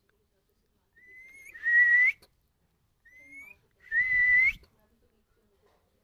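Pet parrot whistling twice. Each whistle is a short rising note followed by a louder, longer note that holds steady and then rises at the end.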